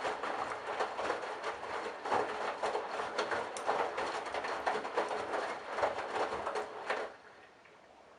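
Candy BIANCA washing machine drum turning the laundry through water during the wash, with irregular sloshing and splashing; the drum stops about seven seconds in and the sound drops away.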